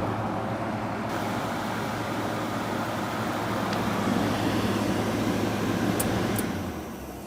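Haier JA-SP25E spot air conditioner running: fan blowing air with a steady low compressor hum. About six seconds in come two short clicks, then the hum stops and the fan sound dies away.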